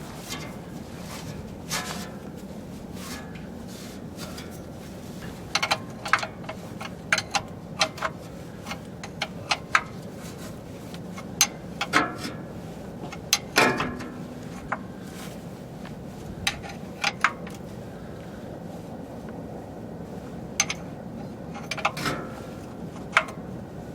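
Scattered light clicks and knocks of metal and plastic parts and tools being handled during an oil change, heard over a steady low hum. They come in clusters, busiest in the middle stretch and again near the end.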